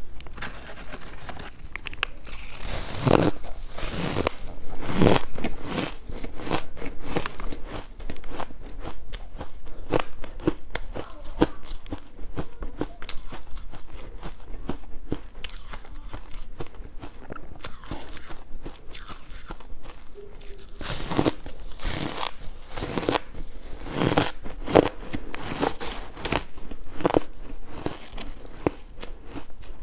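A person biting and crunching ice with the teeth, close up, in a long run of crisp crunches. Louder bites come a few seconds in and again in a cluster near the end.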